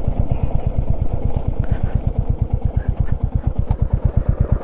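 Royal Enfield motorcycle engine running at low revs with a quick, even beat as the bike creeps over a rocky dirt track on a punctured tyre. The beat grows more distinct in the second half as the bike nearly stops, with a few small knocks from the stones.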